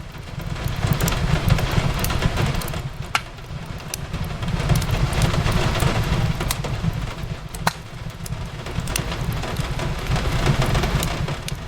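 Steady rain hiss over a deep low rumble, swelling and easing in waves, with a wood fire crackling on top: scattered sharp pops, a couple of them standing out clearly.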